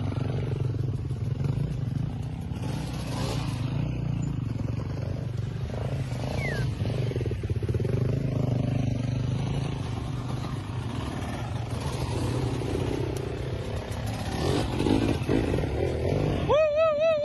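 Dirt bike engines running on a trail ride, a steady low rumble with the engine note shifting up and down. Near the end comes a short warbling, wavering tone.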